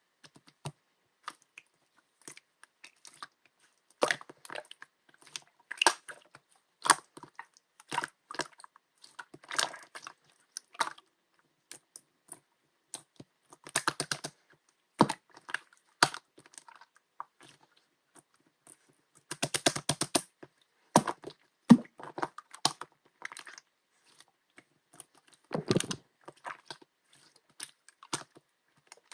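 Pink jelly slime being squished and pressed by hand, giving irregular clusters of small wet clicks and crackles with short quiet pauses between.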